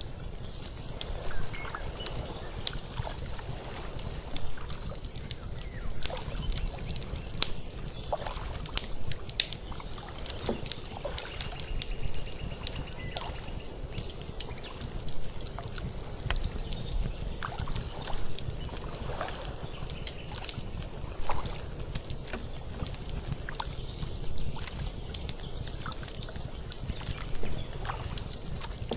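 Lake water lapping and trickling, mixed with frequent irregular crackles and pops from a wood fire over a low steady rumble.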